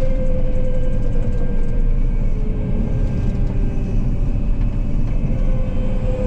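Combine harvester running steadily as it drives along the road: a low rumble with a steady whine over it that sags slightly in pitch.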